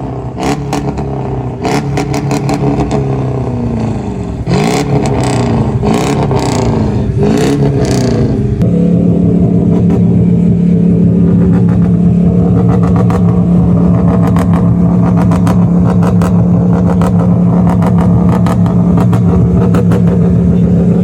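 Mercedes W124 E500's swapped-in M113 V8 and its exhaust, blipped up and down about once a second for the first several seconds, then held at a steady, higher engine speed with a loud constant note for the rest.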